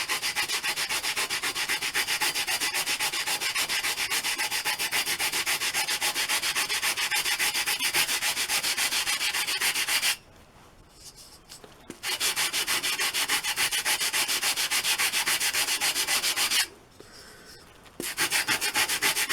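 Coarse sandpaper worked back and forth over a hard walnut block in quick, even strokes, stopping briefly twice: about ten seconds in and again near the end.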